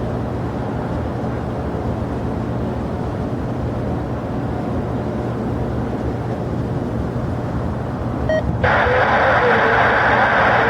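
Steady low rumble of aircraft engines. About eight and a half seconds in, a louder band of radio static, an air-traffic-control channel opening with no voice, cuts in suddenly and keeps going.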